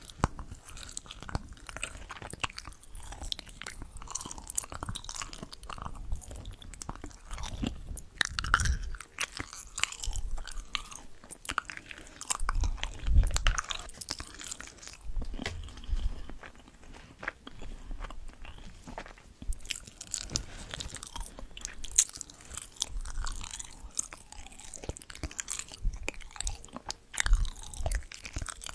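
Close-miked chewing and biting of crunchy food: dense irregular crackles and crunches, with heavier bites about a third of the way in, near the middle and near the end.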